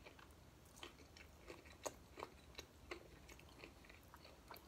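Faint close-up chewing of a fried corn-tortilla chicken taco with shredded lettuce: irregular soft crunches and wet mouth clicks, a few a second.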